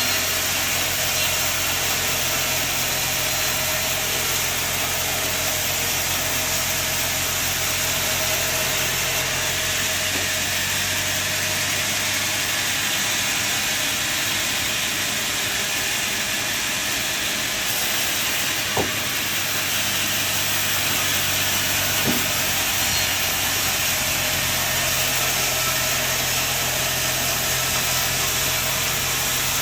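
Sawmill machinery running steadily, a constant whine over a low engine hum that drops away through the middle and comes back near the end. Two sharp knocks stand out in the second half.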